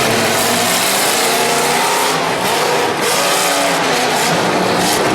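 Engine of a modified off-road competition truck revving hard, its pitch rising and falling as the throttle changes, over a dense, loud wash of noise.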